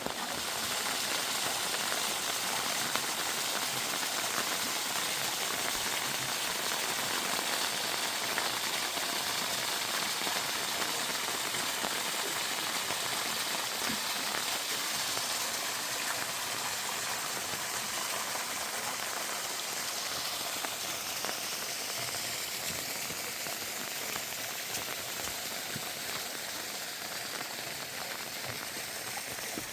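Heavy rain falling steadily, a dense even hiss that grows a little quieter near the end.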